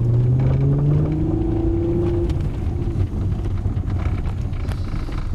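2002 VW GTI's 24-valve VR6 engine pulling under acceleration, its pitch rising over the first two seconds, over a low rumble with repeated knocking. The knock comes only when accelerating, which the owner takes to be most likely in the drivetrain.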